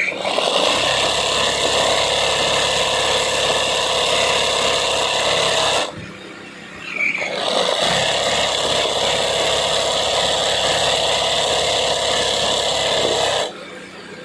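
Sewing machine stitching an embroidery pattern at a steady fast run. It stops for a moment about six seconds in, with a brief high squeak in the pause, then starts again and stops near the end.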